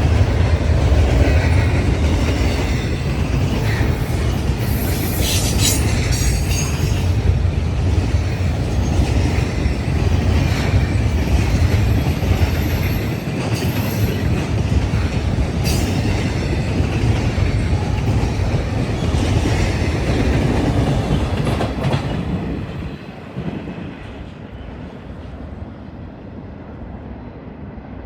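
Intermodal freight train's cars rolling past, with a steady rumble and wheel clatter over the rail joints and a few brief high wheel squeals. The sound drops off sharply about four-fifths of the way through.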